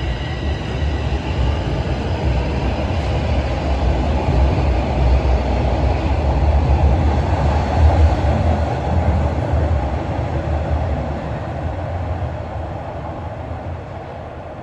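Toronto Rocket subway train running past the platform: a heavy low rumble and roar that build to a peak about eight seconds in, then fade away.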